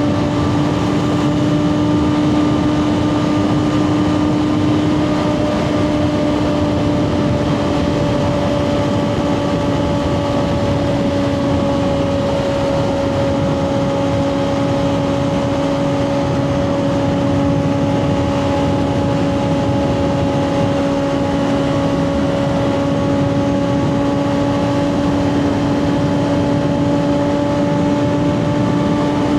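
2024 Kawasaki ZX6R's 636 cc inline-four running through a Two Brothers slip-on exhaust at a steady cruise, its pitch held almost constant and sagging slightly in the middle before climbing back near the end, with wind and road noise underneath.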